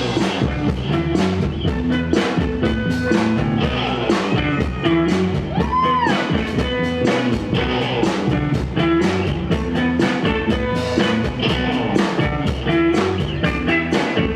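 Rock band playing live: drums and electric guitar in an instrumental passage, with a brief swooping tone that rises and falls about six seconds in.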